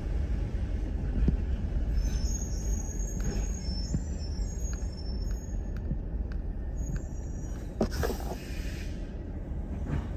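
Autocar ACX garbage truck running with a steady low diesel rumble, thin high squeaks from its body or machinery over the middle stretch, and a short hiss of air about eight seconds in.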